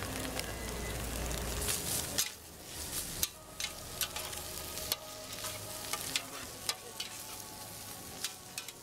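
Beef, shrimp and vegetables sizzling in a hot wok as they are stir-fried, with sharp clicks of a utensil striking the pan. The sizzle is loudest for about the first two seconds, then drops suddenly and carries on softer.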